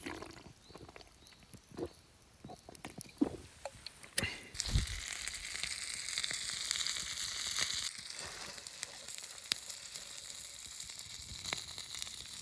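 Food sizzling in an iron skillet: a few scattered knocks and clicks, then from about four seconds in a steady sizzle.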